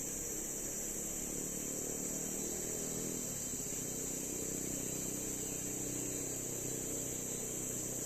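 Steady high-pitched drone of insects in the forest, unbroken, over a faint low hum.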